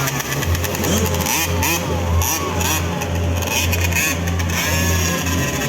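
Small 50cc mini trail dirt bikes racing, their engines revving up and down.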